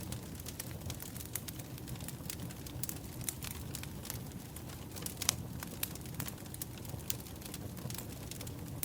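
Wood fire burning, with a steady low rumble and many irregular sharp crackles and pops, one louder pop about five seconds in.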